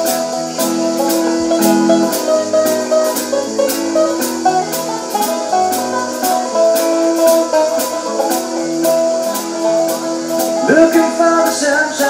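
Country band playing an instrumental passage live: guitars holding and changing chords over a steady drum beat.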